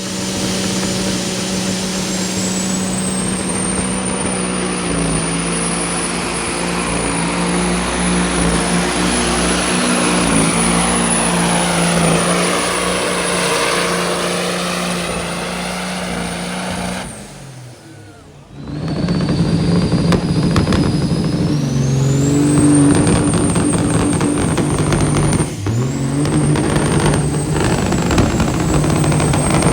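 A pulling vehicle's engine running hard under full power, with a high steady whine over it. About two-thirds through it breaks off briefly. Another engine run then starts, its whine rising in pitch and then holding high.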